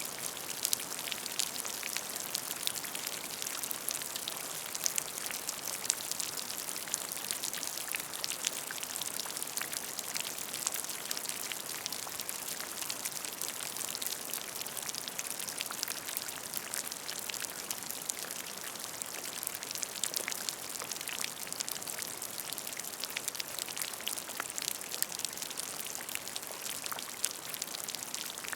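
Steady rain falling on a puddle: a constant patter of many individual drops splashing into water, with a bright, hissing texture.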